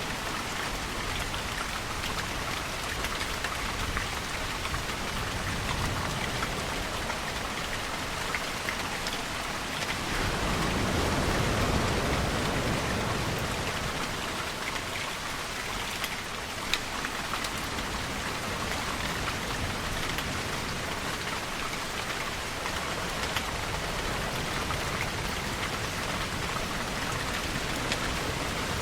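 Steady heavy rainfall, with fine drops pattering on a hard surface. About ten seconds in, a louder, deeper rush swells up and fades away over some four seconds.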